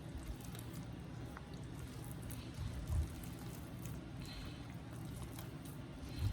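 Hands mixing a soft yeast dough of flour, water and oil in a bowl, with wet squishing. A dull thump comes about three seconds in and another near the end.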